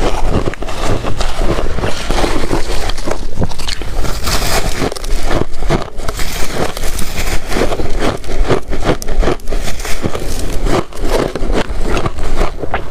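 Shaved ice being crunched and chewed close to the microphone: a dense, irregular run of loud wet crackles and crunches with no pause.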